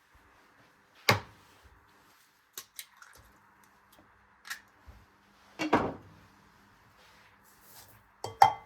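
Kitchenware being handled: a series of separate sharp clinks and knocks, the loudest about a second in, a longer clatter near six seconds, and a quick double knock near the end.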